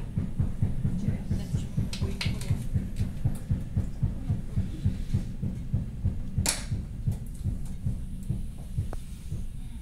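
Running noise of a moving train heard from inside the passenger carriage: a low rumble that pulses quickly and evenly from the wheels and running gear, with a few sharp clicks, the loudest about six and a half seconds in.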